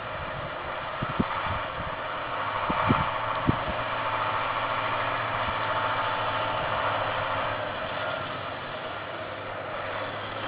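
Heavy off-road truck engine running steadily, a little louder in the middle, with a few short knocks in the first few seconds.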